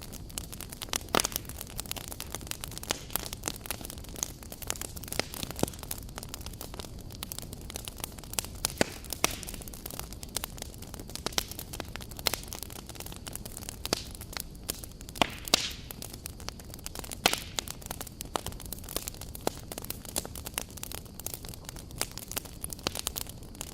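Wood campfire burning, a steady hiss of flames with frequent sharp, irregular crackles and pops.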